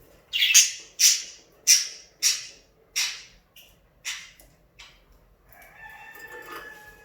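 Pet budgerigars giving a run of loud, sharp squawking calls, about one every half second, then going quieter with a held whistling note near the end.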